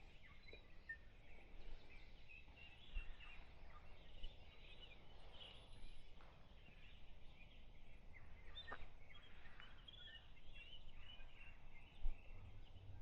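Faint birds chirping and twittering in short, scattered calls, over a low steady rumble.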